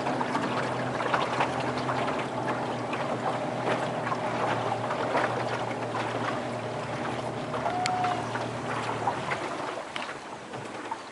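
Boat motor running steadily with a low hum over the rush of water; the motor's note drops away and the sound quietens about nine seconds in.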